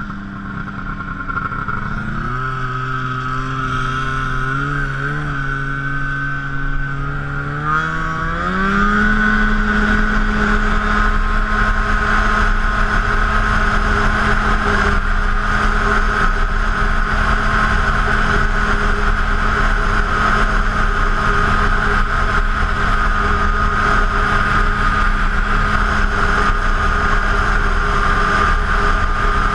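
Arctic Cat F7 Sno Pro snowmobile's two-stroke twin engine under way. It drops to lower revs about two seconds in, climbs back up around eight seconds as the throttle opens, then holds a steady high-rev drone.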